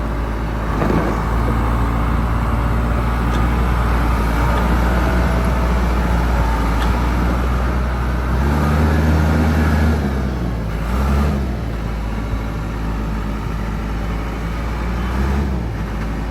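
Case 580L backhoe's diesel engine running, with the engine speed rising for a couple of seconds past the middle and briefly twice more near the end.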